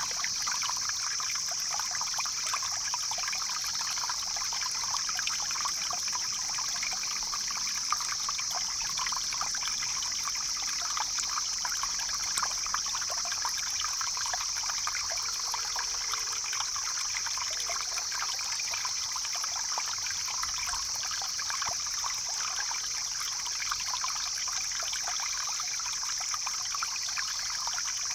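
Mountain stream flowing and babbling steadily over rocks, with a constant high hiss running over it.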